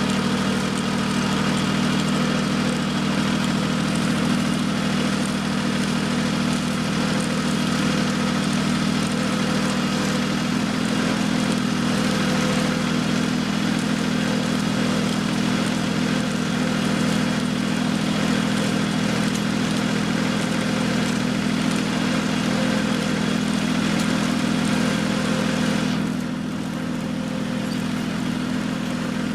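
Tractor engine running steadily, its pitch stepping up slightly about a third of the way through. The higher hiss over it drops away suddenly near the end.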